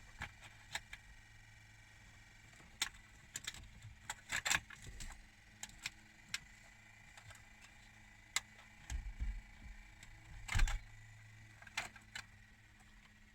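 Irregular small clicks, taps and rattles of hands handling car dashboard trim and wiring. There are two louder knocks, one about a third of the way in and one about three-quarters in, over a faint steady hum.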